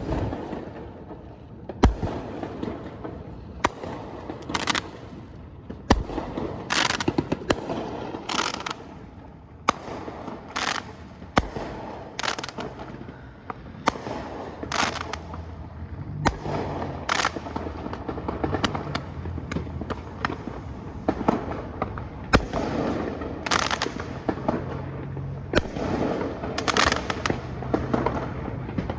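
Fireworks going off all around: many sharp bangs and pops at irregular intervals, some close and loud, some more distant, several with a brief crackle or hiss after them.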